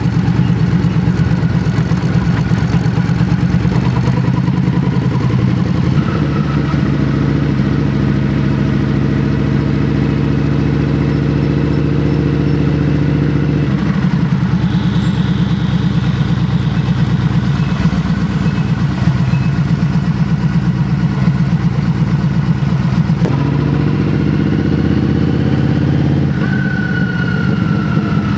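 Yamaha XVS1300A Midnight Star's V-twin engine running while riding in city traffic, a steady deep engine note that shifts a few times as the speed changes.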